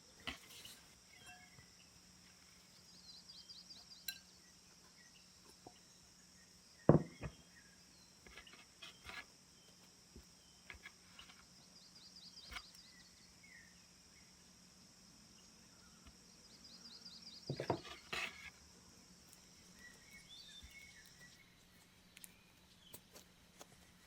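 Scattered clinks and knocks of dishes and baking utensils being handled, with one sharp knock about seven seconds in and a small cluster of clatter about eighteen seconds in. A steady high insect chorus runs underneath and stops near the end.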